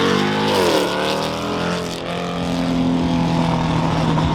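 Car engine and exhaust passing close by, revving up and back down in the first second, then running at a steady tone.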